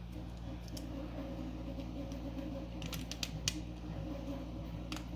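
Small sharp clicks of 3D-printed plastic parts being handled and pressed together: a quick cluster about three seconds in and another near the end, over a steady low hum.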